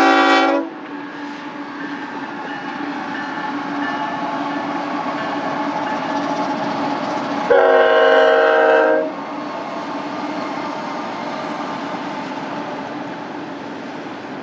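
Union Pacific freight locomotive's multi-note air horn sounding twice: a blast that ends about half a second in and a second, roughly one-and-a-half-second blast about halfway through, with the steady running noise of the passing train between and after.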